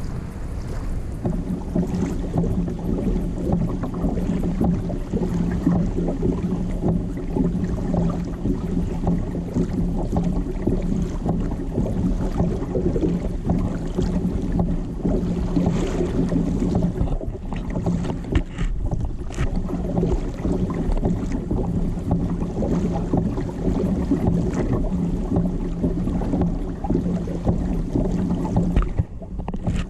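A boat motor running at a steady speed, a constant hum over wind and water noise. It starts about a second in and cuts off just before the end.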